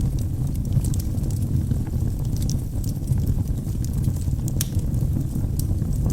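Wood fire burning in a fireplace: a steady low rumble of flames with scattered sharp crackles and pops from the logs, one louder pop about two-thirds of the way through.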